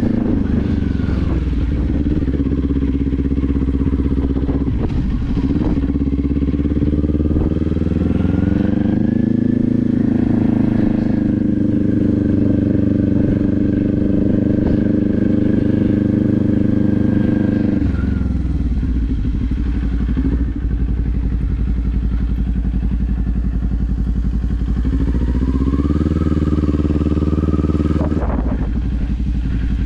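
Kawasaki Z400 parallel-twin engine running under way. The revs climb about seven seconds in and hold for several seconds, fall away sharply around eighteen seconds in, then climb again near the end.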